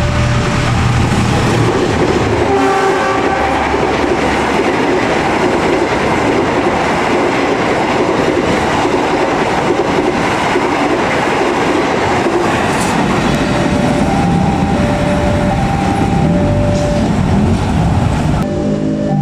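A fast train passing close by a level crossing, with loud, continuous wheel-on-rail noise and a brief horn blast about three seconds in. The crossing's two-tone alarm keeps alternating under it, and the train noise drops away sharply near the end.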